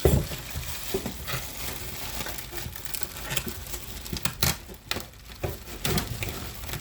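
Packaging rustling and crinkling as it is handled and opened, with scattered clicks and light knocks throughout and a louder knock at the very start.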